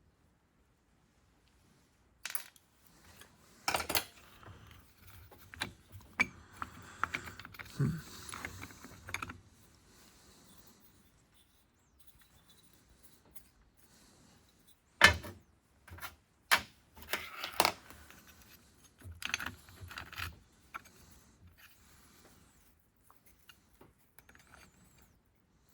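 Small metal clutch parts clinking and clicking against each other and the engine case as a motorcycle clutch pack is taken apart by hand. The sound comes in two bursts of irregular clinks a few seconds long, with quiet between.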